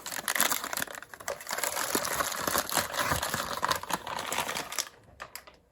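Plastic packaging crinkling and rustling as it is handled. It stops about five seconds in, leaving a few light clicks and taps.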